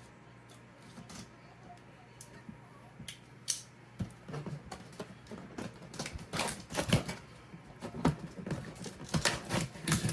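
Seals on a cardboard kit box being cut open and the box handled: irregular clicks, scrapes and taps, starting about three seconds in and getting busier in the second half.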